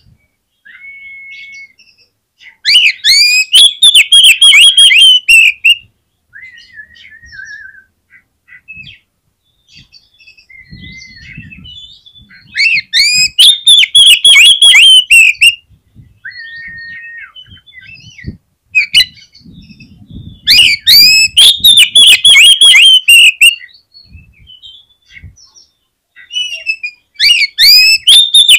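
Oriental magpie-robin (kacer) singing: four loud bursts of rapid, fast-gliding whistled notes, each about three seconds long and coming about every seven to eight seconds, with short, softer single whistles in the gaps.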